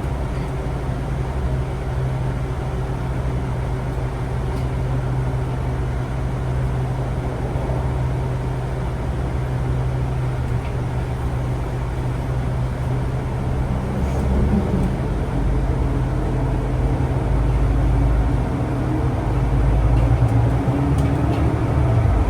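A vehicle running steadily on the move, a continuous low engine drone with a steady hum, heard from inside. The pitch and level shift partway through and again near the end as it changes speed.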